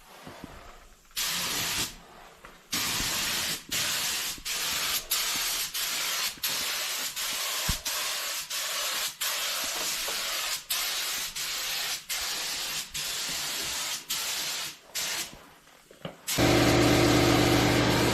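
Air spray gun hissing as automotive paint is sprayed, in many short trigger pulls of under a second each with brief breaks between. Near the end a louder, steady machine hum with a low pitched drone starts up.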